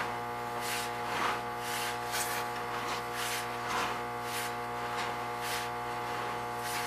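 Sewer inspection camera's push cable being pulled back by hand: soft rubbing scrapes every half second to a second, over a steady electrical hum.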